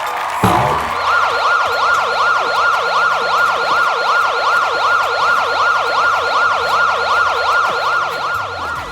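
Emergency-vehicle siren in a fast yelp, its pitch sweeping up and down about two and a half times a second, over a low rumble.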